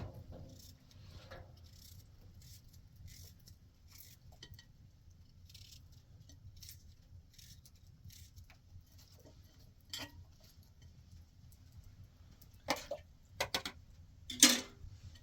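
Scattered light clicks and taps of objects being handled, with a few sharper knocks in the last few seconds, the loudest near the end.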